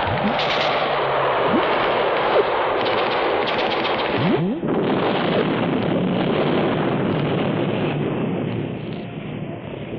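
Dense, continuous machine-gun fire and gunshots as a sound-effects battle, with a few short rising squeals through it. It dips briefly about halfway and fades out near the end.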